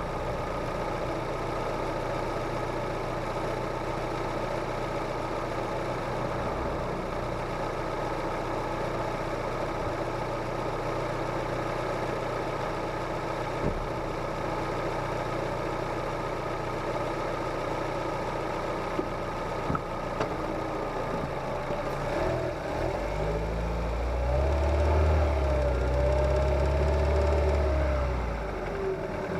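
Kia Ceed's G4FG 1.6-litre four-cylinder petrol engine heard from under the bonnet, running steadily and then, from about two-thirds of the way in, pulling louder under acceleration for several seconds before easing off near the end. The engine is cold, the state in which it knocks on acceleration, a knock that goes away once the engine warms up.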